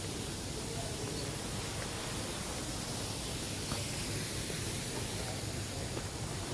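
Steady rainforest ambience: an even hiss that is strongest high up, with a few faint clicks.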